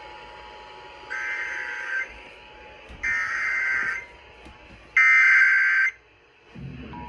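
Emergency Alert System SAME header: three one-second bursts of shrill digital data tones, each louder than the last, a second apart. Near the end the steady two-tone attention signal begins, which announces the flash flood warning that follows.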